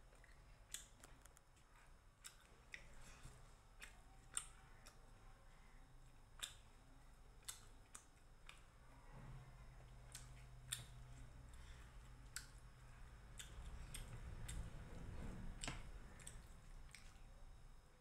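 Faint eating sounds of roti and chicken curry eaten by hand: irregular soft clicks of chewing and mouth noises, a few a second at most. About halfway through a low steady hum comes in underneath.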